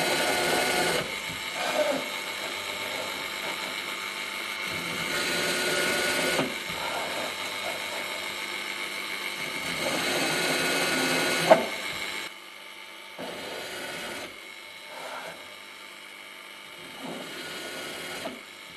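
A small power tool running with a steady high whine while it works the metal of a machinist square, louder in three passes and with a sharp click about eleven and a half seconds in, then running more quietly for the last few seconds.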